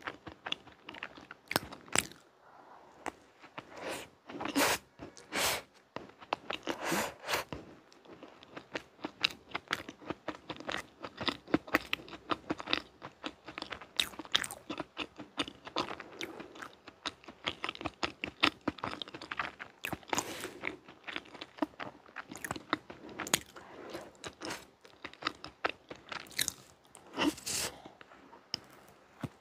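Close-miked chewing and mouth sounds of someone eating a layered chocolate ganache cake with chocolate mousse cream: many short, irregular clicks and smacks.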